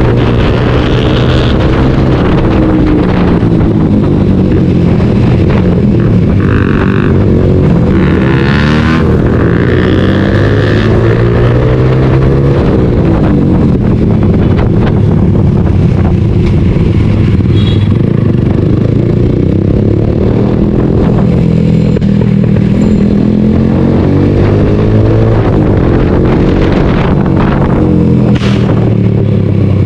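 Suzuki GSX-R motorcycle engine running through an aftermarket Scorpion exhaust while riding. Its pitch rises and falls several times as the throttle is opened and closed.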